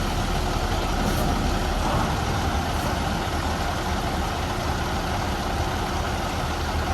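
Heavy diesel truck engine running steadily at an even pitch.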